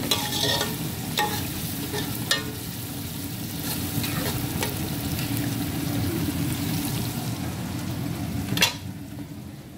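Onion and tomato masala frying in oil in an aluminium pot, stirred and scraped with a slotted metal spoon, with occasional sharp clinks of metal on the pot. A sharp knock comes near the end, after which the frying sound is fainter.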